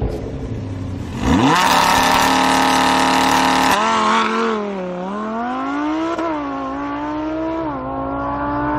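Lamborghini Huracán's V10 revved sharply about a second in and held loud at high revs while stationary, then dropping as the car launches and rising in pitch through the gears, with quick upshifts about six and eight seconds in.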